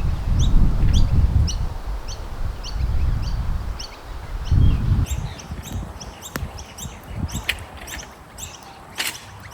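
A small bird chirping over and over, short high notes about twice a second, with more chirps joining in the second half. Gusts of wind rumble on the microphone underneath, swelling and fading.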